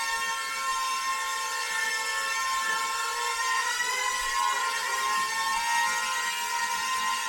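Toy fighter-jet-style quadcopter drone in flight, its four small propeller motors giving a steady high whine that wavers slightly in pitch about halfway through.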